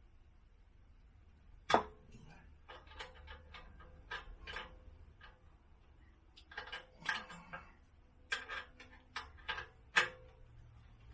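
Tools and metal parts being handled: an irregular run of clicks and knocks, some with a short ring, with the sharpest knocks about two seconds in and near the end.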